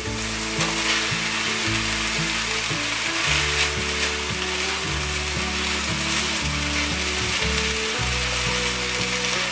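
Vegetables and boiled fusilli pasta sizzling in a hot nonstick frying pan as they are stir-fried with a silicone spatula, over soft background music.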